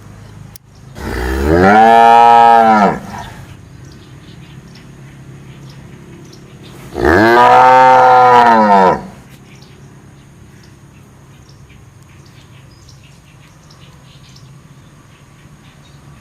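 A cow mooing twice: two long calls about five seconds apart, each rising and then falling in pitch.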